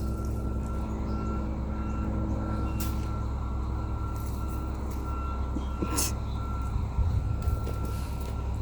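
Vehicle engine running steadily with a reversing alarm beeping at an even pace. A few short sharp knocks come about three and six seconds in.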